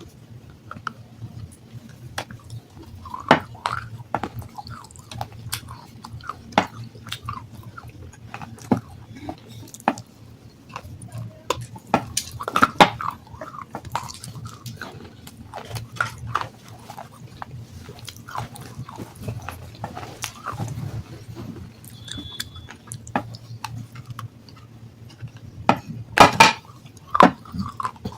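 A person chewing and crunching water-soaked sandstone close to the microphone: irregular crisp crunches and bites with wet mouth sounds, the loudest run of crunches near the end.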